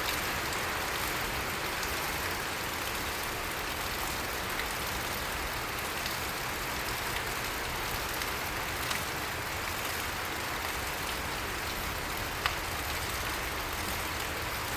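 Steady rain falling, an even hiss with a couple of sharp taps about nine and twelve seconds in.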